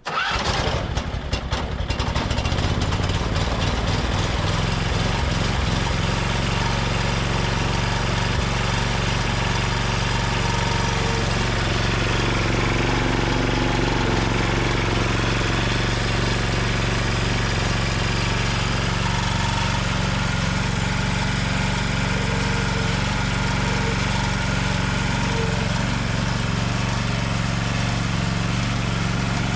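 Bolens H16XL garden tractor's engine cranked over by the starter and catching within about two seconds, then running steadily.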